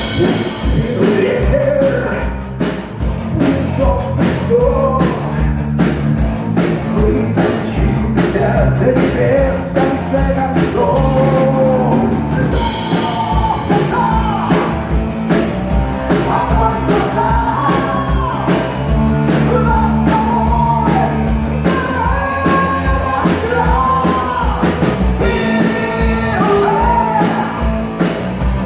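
Live rock band playing with drum kit and a singer's vocal line over the band.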